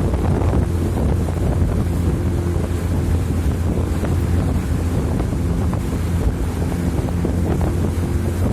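A boat's engine running steadily with a low hum, while wind buffets the microphone.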